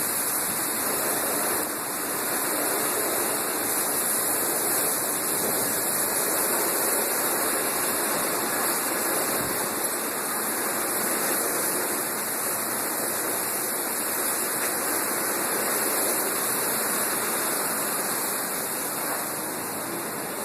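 Heavy rain pouring down steadily during a storm, an even hiss that eases slightly near the end.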